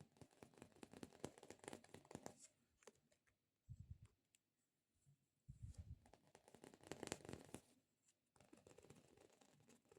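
Sticky squishy stress-relief toy being squished and pulled close to the microphone: crackly, tearing peeling sounds in three spells, with two soft low thuds in between.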